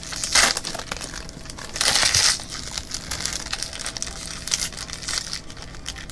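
Trading-card packaging crinkling and being crushed as a box of baseball card packs is unpacked. There are two louder crinkly rustles, about half a second in and around two seconds in, with softer rustling between and after.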